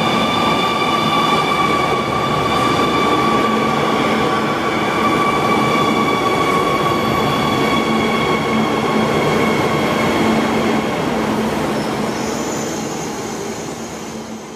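High-speed train running, a loud rushing noise with a steady whine of several high tones that drift slightly lower; it fades away over the last few seconds.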